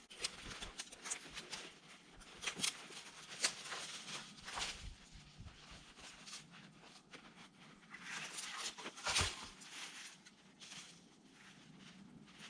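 Irregular crunching and rustling of a person moving on foot through snow and brush.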